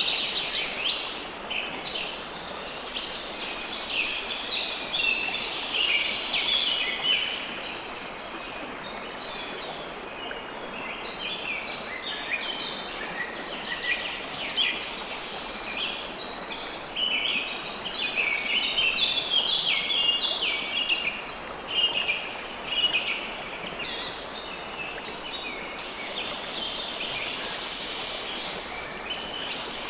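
Steady rush of flowing river water with small birds chirping over it in quick, overlapping calls. The chirping thins out for a few seconds about a third of the way through, then picks up again.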